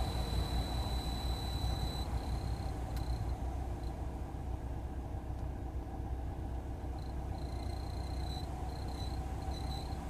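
Volkswagen Polo Sedan heater blower fan whistling: a thin high-pitched whistle over the low hum of the blower and idling engine. It is steady at first, breaks up after about two seconds, drops out for a few seconds in the middle and comes back in broken stretches near the end. The whistle comes on with the engine fully warm, and the owner says it happens whatever the temperature.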